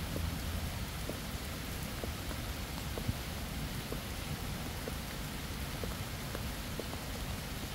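Steady rain falling, an even hiss with scattered individual drops ticking. A low rumble dies away in the first second.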